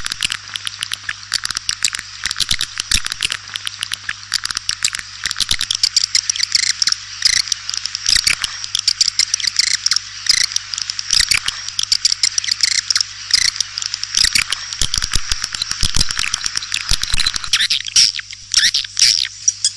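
A flock of swiftlets twittering, a dense unbroken stream of rapid high chirps and clicks.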